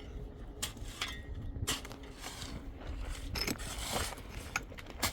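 Hand tools knocking and clinking now and then in bricklaying and mortar work: several short sharp taps spread over a few seconds, with a low rumble underneath.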